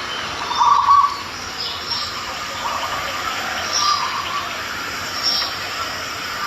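Birds chirping and calling in short repeated phrases over a steady background hiss, the loudest call about a second in.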